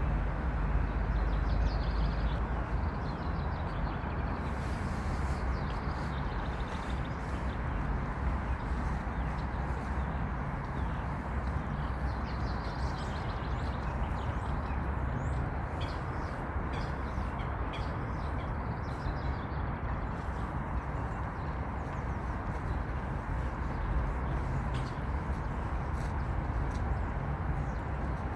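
Birds chirping and singing faintly, in short scattered phrases, over a steady low rushing background noise.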